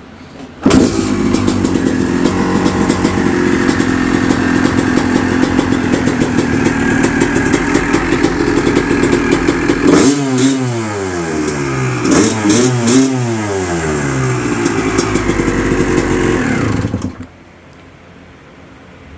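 1996 Honda CR250R's freshly rebuilt two-stroke single-cylinder engine catching and starting about a second in, then running steadily. Past the middle it is blipped through several revs up and down, then settles back and is shut off near the end.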